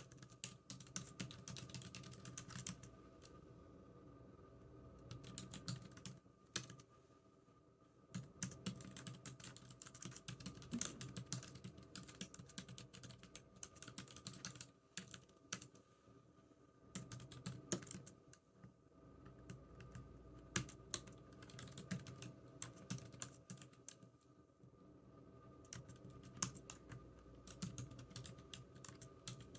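Typing on a computer keyboard: runs of quick key clicks broken by short pauses of a second or two.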